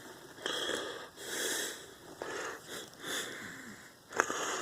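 A man breathing heavily and audibly close to the microphone, a series of uneven, hissy breaths.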